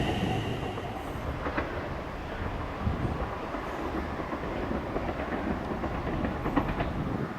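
NS Sprinter Nieuwe Generatie (CAF Civity) electric train running on the track: a steady rumble with a few scattered clicks of the wheels over the rails.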